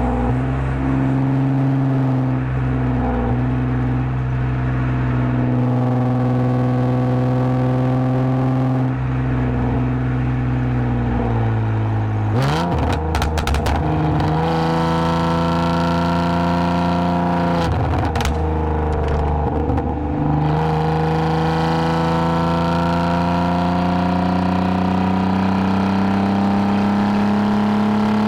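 2010 Lexus IS250 AWD's 2.5-litre V6 through a full aftermarket exhaust with valved mufflers, running steadily at cruise. About halfway the revs step up with a brief rattle, then after a short dip the engine note climbs steadily as the car accelerates.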